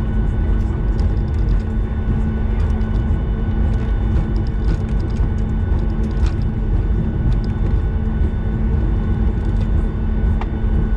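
Boeing 737 cabin noise while taxiing after landing: a steady low rumble with the steady whine of the engines at idle, and scattered faint clicks and rattles from the cabin.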